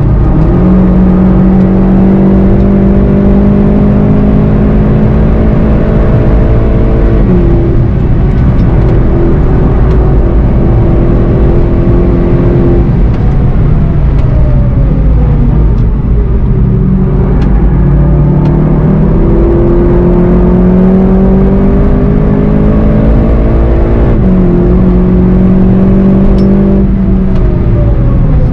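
VW Golf 7.5 GTI TCR's turbocharged 2.0-litre four-cylinder engine pulling hard at speed on track, its pitch climbing with a gear change about seven seconds in. Around halfway the pitch falls away as the car slows, then climbs again through another gear change and drops near the end under braking, over constant road and wind noise.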